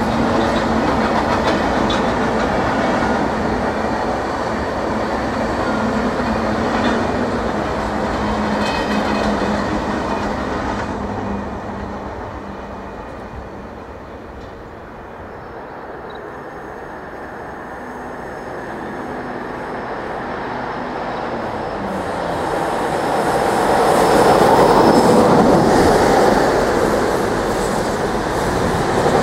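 Freight wagons of a long train rolling past on the rails, wheels clattering with a steady low hum, fading away over about ten seconds. Later, sleeper-train passenger coaches pass close by, the rolling sound swelling to its loudest.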